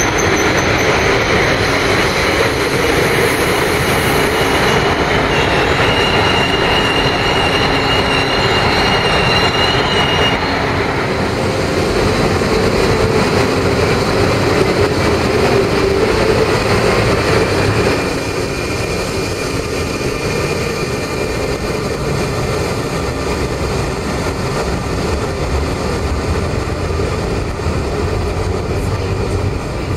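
Electric train of a DB Class 182 locomotive and double-deck coaches running past the platform in an underground station, a steady heavy rumble with a thin high squeal from the wheels for the first third. The noise drops a step about 18 seconds in.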